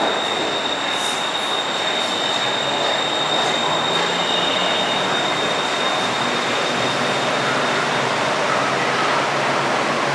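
BTS Skytrain train pulling into an elevated station platform and slowing as its cars pass, a steady rumble of wheels on rail. A thin high tone sounds over it and fades out about four seconds in.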